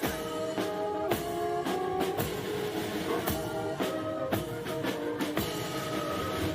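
Band music playing held notes, punctuated by sharp drum strokes.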